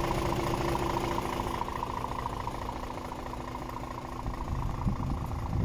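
Scania R410 truck's straight-six diesel engine idling steadily, with a faint whine over the rumble that fades out about a second and a half in.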